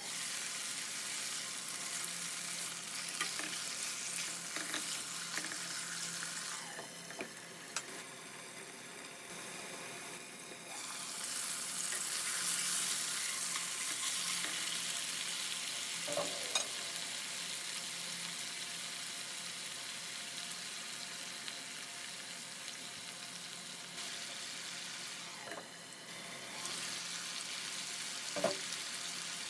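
Boneless chicken thighs sizzling steadily as they fry in a nonstick pan, louder for a few seconds about a third of the way in. A couple of sharp clicks come from the tongs against the pan as the pieces are turned.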